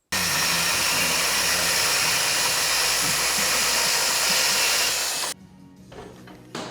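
Loud, steady rushing noise of a motor-driven blower or power tool running, cutting off suddenly about five seconds in, then a faint low hum.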